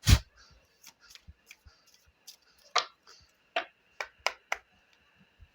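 A deck of tarot cards being handled: a loud tap at the start, then a few separate sharp clicks of the cards in the second half.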